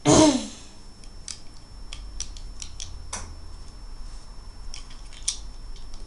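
Plastic Lego bricks handled and clicked together: a scattered string of small sharp clicks and taps. A brief, loud sound falling in pitch comes right at the start.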